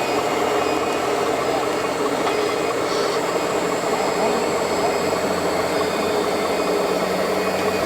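Steady engine-like running sound from radio-controlled model trucks, over the even background noise of a busy exhibition hall.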